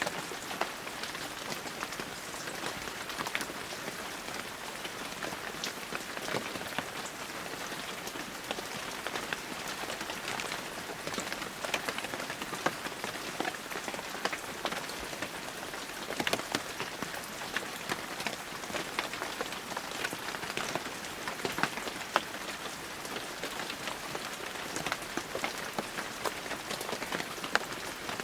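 Heavy rain falling steadily, a dense hiss with many sharp individual drops pattering on surfaces.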